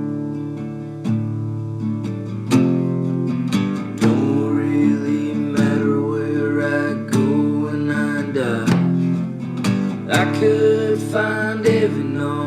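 Acoustic guitar strumming chords in a steady rhythm, with a higher melody line that bends in pitch coming in over it about four seconds in: the instrumental introduction of a song.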